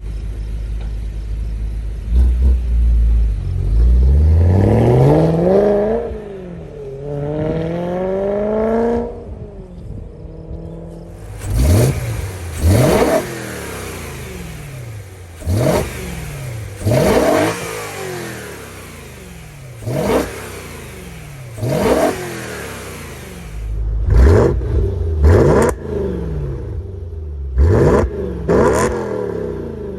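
BMW M3's 4.0-litre S65 V8 through a Corsa cat-back exhaust with an AFE cold air intake: a low idle rumble, then the engine climbs in pitch twice over several seconds. After a short lull come a dozen short, sharp revs, each rising and dropping back quickly, coming faster near the end.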